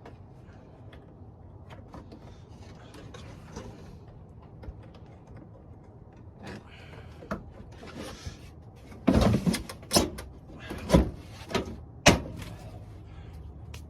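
Light handling noise, then a quick run of about four loud knocks and clunks near the end, as plastic body trim is pushed and knocked into place on the car's front end.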